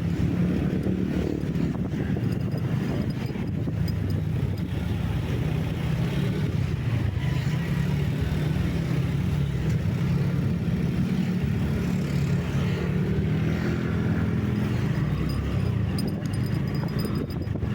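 Steady low engine and road noise of a vehicle driving along at an even pace.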